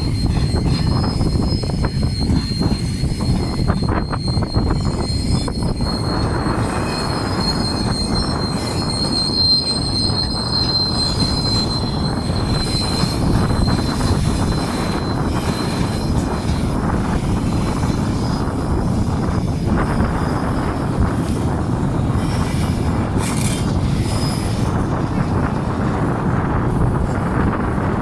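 Train rolling along the rails with a steady rumble of wheels. A high, thin steel-wheel squeal rides over it through the first half, loudest about a third of the way in, then fades out.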